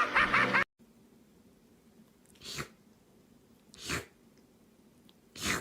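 A cat sneezing three times, about a second and a half apart.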